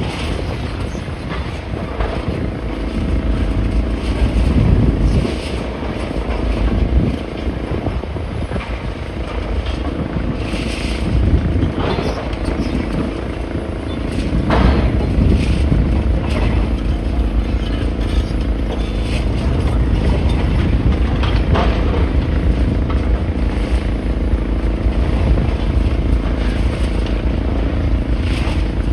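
A heavy machine's engine running steadily with a low rumble, with a few short clanks, around twelve and fifteen seconds in.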